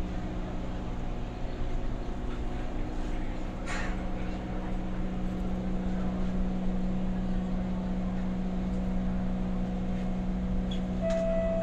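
Steady hum of a Kawasaki C151 MRT train car's onboard equipment while it stands at a platform with its doors open, with one brief click about four seconds in. Near the end a two-tone door-closing chime begins.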